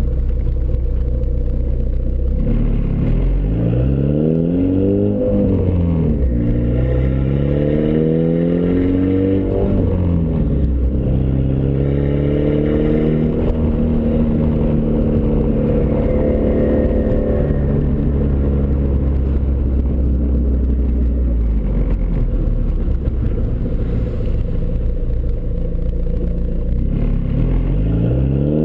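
Turbocharged Ford Escort ZX2's 2.0-litre four-cylinder running through a custom 3-inch side-exit exhaust. It revs up and drops back several times, with a longer steady stretch in the middle and another rev near the end.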